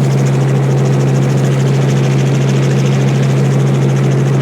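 Helicopter running steadily: a loud, even drone with one strong low hum.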